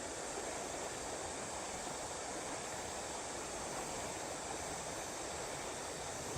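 Steady rush of flowing river water, the river running high after a rain shower.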